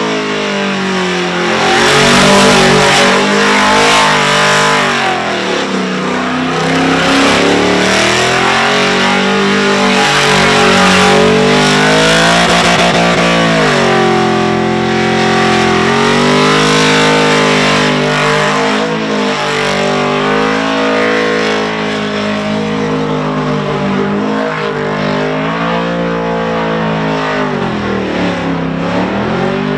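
Supercharged Holden VX Commodore engine held at high revs during a burnout, with the tyres spinning. The revs rise and fall repeatedly, with sharp dips about five, thirteen and sixteen seconds in and again near the end.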